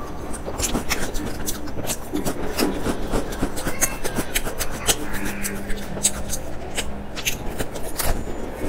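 Close-miked chewing and crunching of crisp baked pastry and thin wafer biscuits: a steady run of sharp crunches and crackles.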